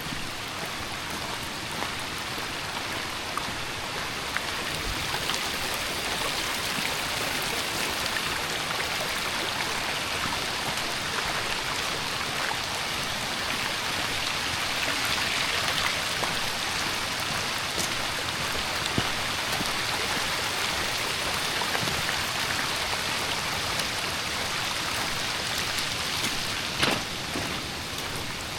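Heavy downpour with storm runoff rushing over a gravel driveway as a steady hiss, washing it out, with scattered sharp drip ticks.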